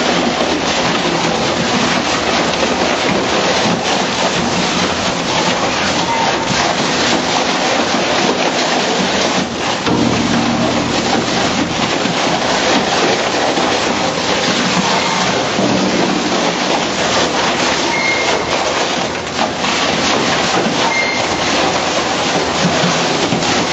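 Raptor tire chipper with hook shear knives shredding heavy truck tires: loud, continuous crunching and crackling over a low machine hum.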